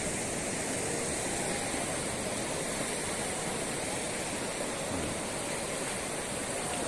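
Steady, even rushing noise of beach ambience, the wash of surf and wind.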